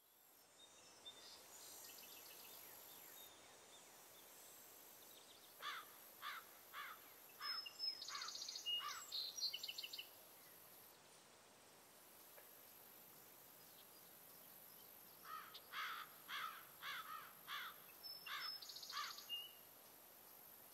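Faint countryside ambience: a bird calls in two runs of quick repeated chirps, with a few high whistled notes among them. A steady high hiss lies beneath.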